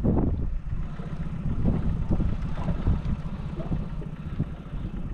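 Wind rumbling on the microphone, with the 15 lb monofilament fishing line singing in the wind. The line is stretched really tight by a hooked bull shark.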